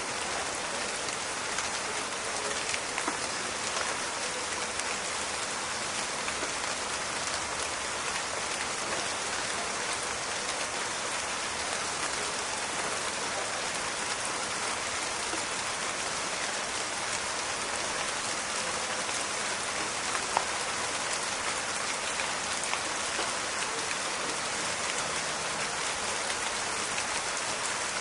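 Steady rain falling in a forest, an even hiss with small crackling drop impacts scattered through it and one sharper drop about 20 seconds in.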